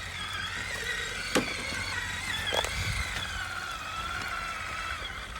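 Electric drivetrain of an Axial SCX10 III RC rock crawler with an Element 3-gear transmission whining as it crawls. The pitch rises and falls with the throttle, with a couple of sharp clicks of the truck against rock, one about a second and a half in and another near the three-second mark.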